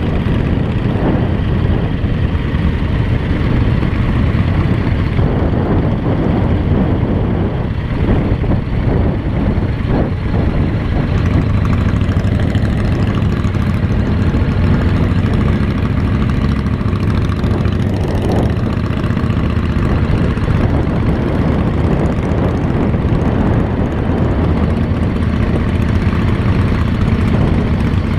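Motorcycle engine running steadily under way, a continuous low drone with no change in pace.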